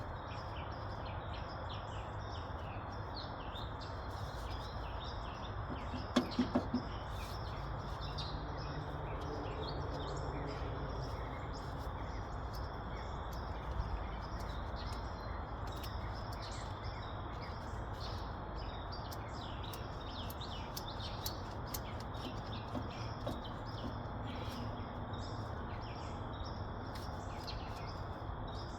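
Small birds chirping over steady outdoor background noise, with a quick run of about four sharp clicks about six seconds in.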